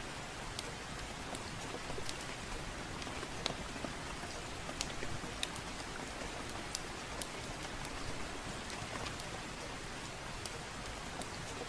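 Steady soft rain falling, with scattered sharp ticks of drops or crackles every second or so.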